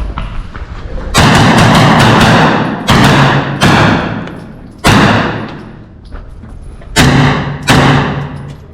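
A pistol fired about six times in an action pistol course of fire, the shots coming singly and in quick pairs, each followed by a long echoing decay.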